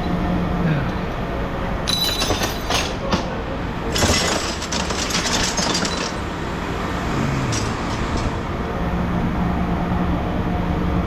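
Machine engine running steadily, its pitch sagging briefly twice as if under load, while scrap metal clangs and clatters loudly about two seconds in and again for about two seconds from four seconds in.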